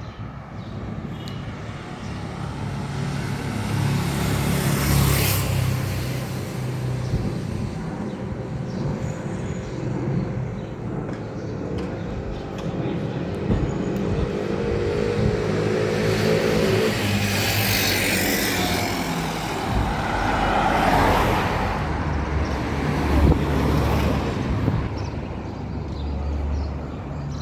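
Road traffic: several motor vehicles pass close by one after another, each a swelling rush of engine and tyre noise. One of them gives a steady engine hum for a few seconds midway.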